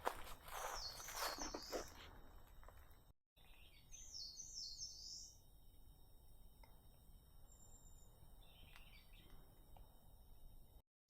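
Footsteps on a forest path for the first two seconds, then a songbird singing short phrases of high chirps, twice, with a lower call near the end.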